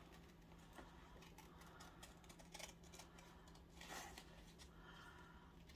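Very faint crafting sounds: small scattered clicks and light rustles of paper being handled and snipped with scissors, with a slightly louder touch or two near the middle.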